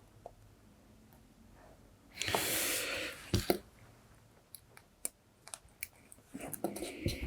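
Small clicks and taps from handling tools and parts at a soldering bench, with a brief hiss about two seconds in and a pair of sharp clicks just after it.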